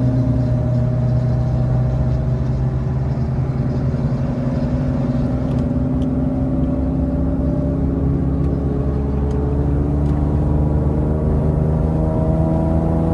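Infiniti G37's 3.7-litre VQ37 V6 through a loud aftermarket exhaust, droning steadily at moderate revs, heard from inside the car. The pitch creeps up slowly in the second half as the car gathers speed.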